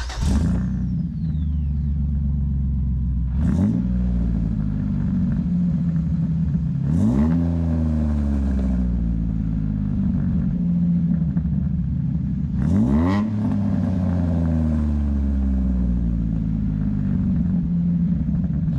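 2007 Jeep Wrangler's 3.8-litre V6, on long-tube headers with no cats and a Flowmaster Super 10 muffler, idling, then revved briefly three times, each rev rising and falling back to idle. The exhaust note has a slight raspiness to it.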